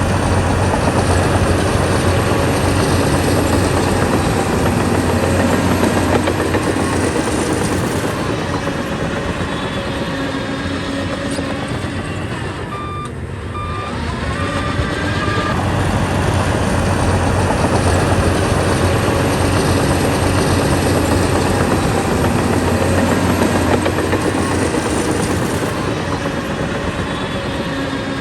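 Heavy diesel earthmoving machinery working: a bulldozer's engine running under load with a dense rattle, easing briefly about halfway through and then picking up again.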